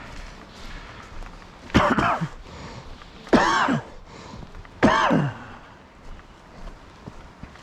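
A person's voice: three short, loud, wordless vocal sounds about a second and a half apart, each rising then falling in pitch.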